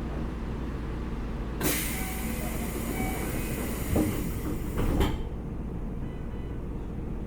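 Keikyu 1500-series electric train running, heard from inside the front car, with a steady low rumble. About a second and a half in, a loud rushing hiss starts suddenly and stops just as suddenly some three and a half seconds later, with a couple of sharp knocks near its end.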